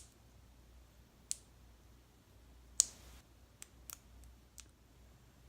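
Sharp plastic clicks from a small loose-glitter jar being worked open. The loudest comes a little under three seconds in, with a short rustle after it, and a few lighter ticks follow.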